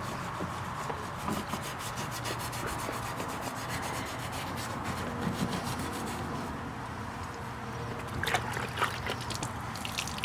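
Wire brush bit spun by a drill, scrubbing the inside of a car's exhaust tip: a continuous scratchy rasping with a low steady hum underneath and a few sharper scrapes near the end.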